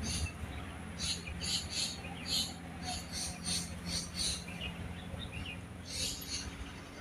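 A wild bird calling: short, high, rasping chirps repeated in quick pairs and small groups, pausing for about a second and a half near the end before starting again.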